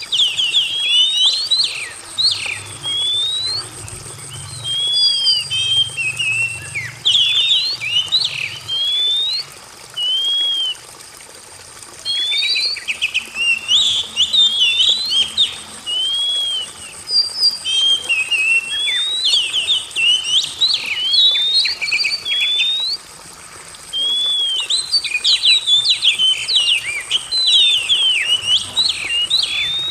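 Oriental magpie-robin (kacer) singing: bursts of varied whistled notes that arch up and down, mixed with quick trills, broken by short pauses. A thin steady high tone runs behind the song.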